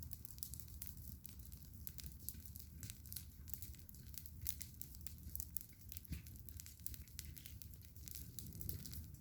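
Campfire crackling: many small irregular pops and snaps, over a steady low rumble.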